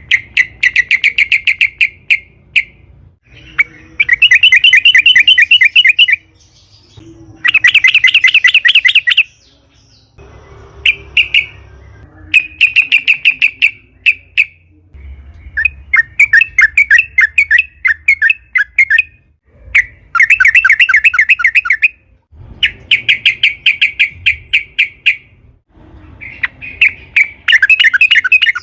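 Yellow-vented bulbul (trucukan) singing in about nine bouts of rapid, bubbly chattering notes, each bout lasting about two seconds with short pauses between.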